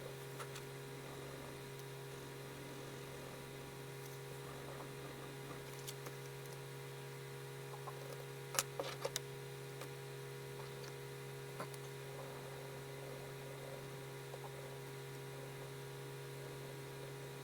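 Steady low electrical hum, with faint, sparse pencil-on-paper ticks and strokes. Near the middle comes a quick cluster of three sharp clicks.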